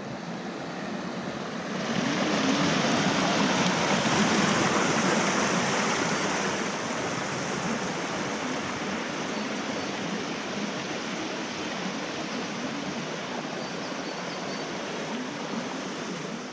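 Steady rushing of a mountain valley stream's flowing water, growing louder about two seconds in and then holding even.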